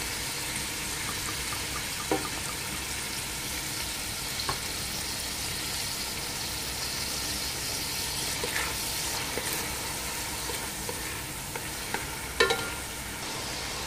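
Shredded chicken, onion and garlic sizzling steadily in hot oil in a pan. A spatula knocks and scrapes against the pan a few times as it stirs, most loudly near the end.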